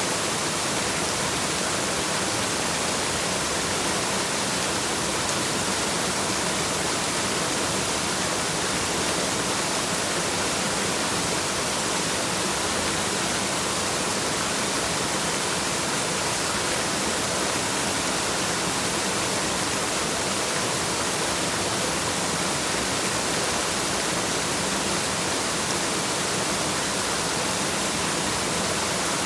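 Waterfall: falling water making a steady, unbroken rushing hiss, heaviest in the high range, with no change in level.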